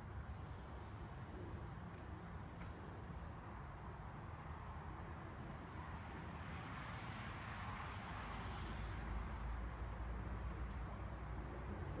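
Small birds giving short, high chirps, a few at a time, scattered throughout, over a steady low outdoor rumble that swells in the middle.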